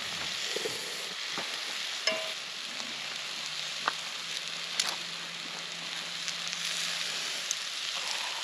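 Food sizzling steadily in a frying pan over a campfire, with a few sharp pops scattered through.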